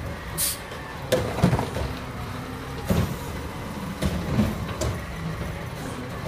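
Garbage truck engine running steadily, with a short air hiss about half a second in and a series of sharp clunks and knocks from about a second in.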